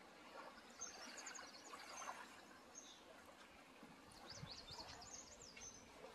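Near silence: faint outdoor ambience with birds chirping high and quick, in a short run about a second in and another a little past four seconds.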